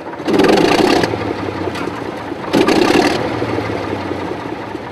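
Leyland six-cylinder diesel engine of a 1955 John Fowler diesel shunter running just after a restart, a steady low hum with two louder surges of about a second each, one just after the start and one about two and a half seconds in.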